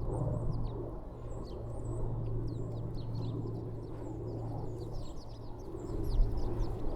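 Many small birds chirping at a feeder: rapid, short, high chirps overlapping throughout, over a steady low background rumble.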